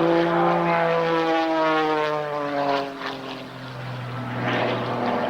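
Piston-engine propeller aircraft flying past: its engine note slides down in pitch as it passes, fades, and then engine sound builds again near the end as another pass approaches.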